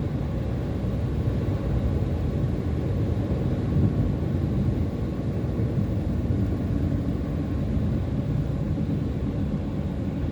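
Steady low rumble of a car driving along a road: engine and tyre noise with no sudden changes.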